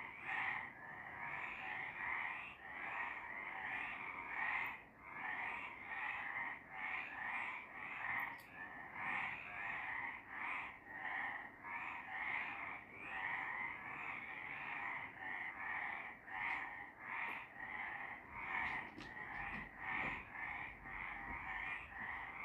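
A chorus of several frogs croaking, the calls overlapping in a steady pulse about twice a second.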